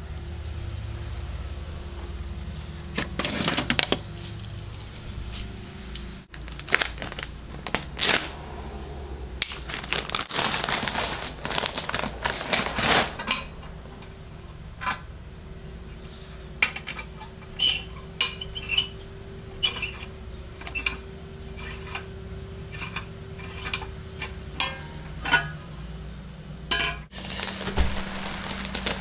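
Objects being handled: a run of light clinks and knocks, most of them in the second half, and several longer rattling, rushing stretches of a few seconds each, over a steady low hum.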